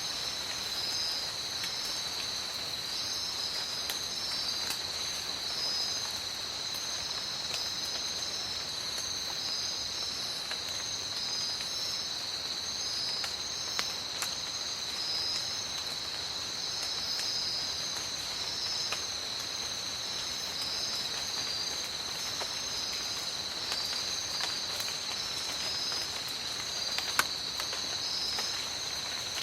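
Steady rain falling in a tropical forest, with scattered drops ticking close by and one sharper drip near the end. Over it runs a continuous high insect trill, and a second insect calls in short repeated pulses just above it.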